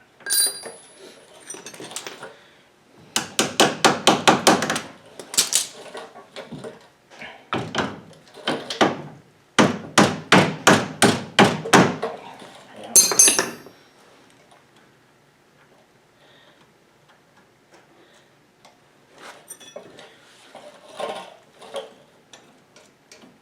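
Hammer blows on metal in quick runs of several strikes, about five or six a second, with a couple of ringing metallic clinks near the start and about halfway through, then a few faint knocks.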